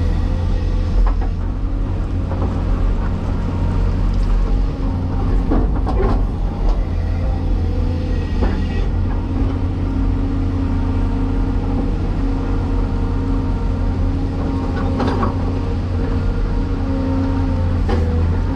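Caterpillar 336E hydraulic excavator's diesel engine running steadily under work, with a few sharp clanks from the machine's working gear scattered through.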